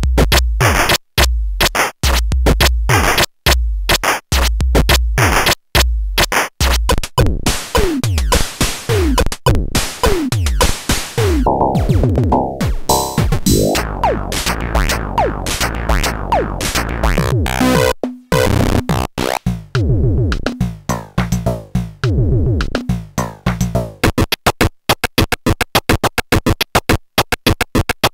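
VXXY DCM8 digital chiptune drum machine playing lo-fi 8-bit drum patterns in the style of old video-game sound chips. It plays a steady beat of hits, then a stretch of falling pitch sweeps, and near the end a fast run of short hits.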